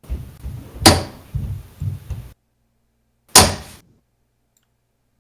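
Darts striking a bristle dartboard: two sharp thunks about two and a half seconds apart.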